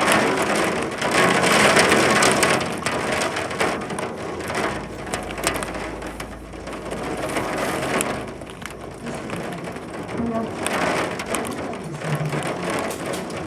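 Hail and rain pelting down: a dense rattle of many small hard hits over a steady wash of rain, swelling louder for a while early on and again near the end.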